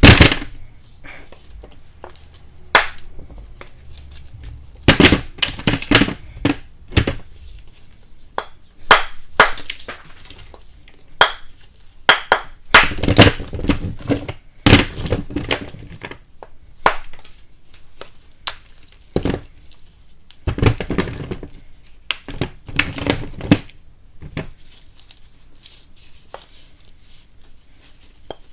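Pieces of chalk being broken apart and crushed: irregular sharp cracks and crunches, in quick clusters, thinning out to a few faint ones near the end.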